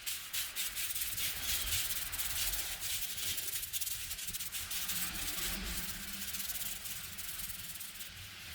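Scratchy rubbing and scraping against a surface, full of small ticks. It starts abruptly and eases off near the end.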